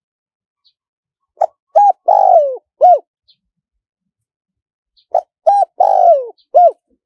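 Spotted dove cooing: two song phrases about four seconds apart. Each is a few short coos, then a long falling coo and a final short coo.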